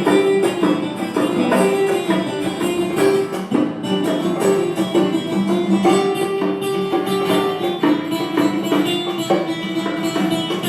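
Band music with plucked guitar lines over a steady, even beat.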